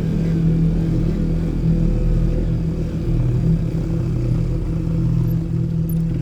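Dirt bike engine running at a steady pitch, held at an even speed.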